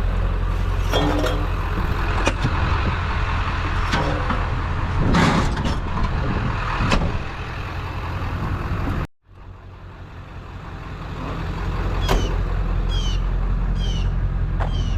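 A vehicle's engine running with a steady low hum, with knocks and rattles of metal items being handled over it for the first half. The sound cuts out abruptly about nine seconds in, then the engine hum fades back in, with a few short high chirps.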